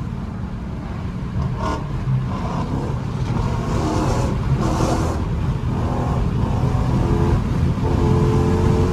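Straight-piped 392 (6.4-litre) HEMI V8 of a Dodge Charger Scat Pack running under load on the move, its deep exhaust drone slowly growing louder.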